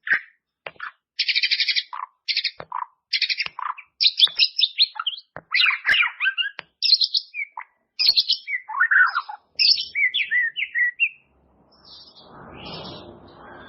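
White-rumped shama (murai batu) singing a fast, varied song: short whistles, trills and chattering phrases following one another quickly. Near the end a soft, low rustling noise sits under the song.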